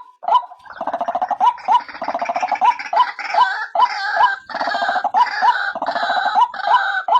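White-breasted waterhen calling. A steady series of short, clipped notes comes about two or three a second. From about a second in, a loud, dense gurgling, croaking chorus joins them, and near the end only the plain repeated notes are left.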